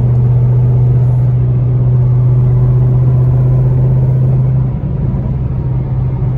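A 5th-gen Chevrolet Camaro heard from inside the cabin, cruising at highway speed, with a loud, steady low exhaust and engine drone. The drone eases a little about two-thirds of the way through.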